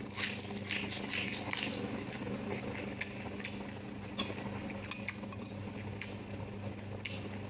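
Close-miked eating: scattered clicks and clinks of cutlery against a dish, busiest in the first couple of seconds, over a steady low hum.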